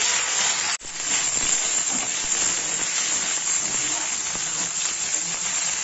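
Diced potatoes, grated coconut, slit green chillies and ginger paste sizzling steadily in hot mustard oil in a metal kadai while a spatula stirs them. The sizzle cuts out for an instant about a second in, then carries on.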